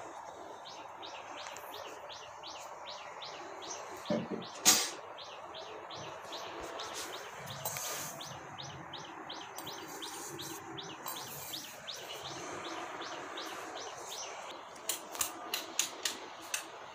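A small bird chirping over and over, short high chirps about three a second. A couple of loud knocks come about four seconds in, and a quick run of sharp clicks near the end.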